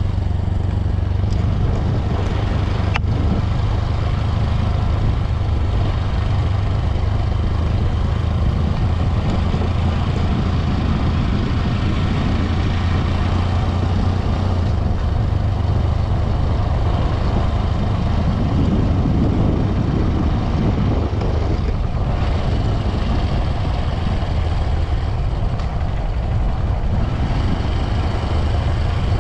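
A Honda CRF150L's single-cylinder four-stroke engine running steadily while the motorcycle is ridden, with rushing air noise over the microphone.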